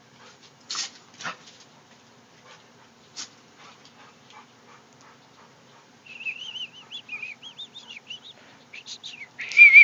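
A chocolate Labrador puppy whining: a high, wavering whimper that rises and falls rapidly for a couple of seconds past the middle, after a few scattered short clicks. Near the end a loud high note comes in.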